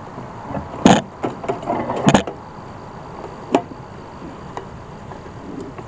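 Sharp knocks and clicks of wooden beehive parts being handled and pried apart, two loud ones about a second apart, then a few lighter ticks.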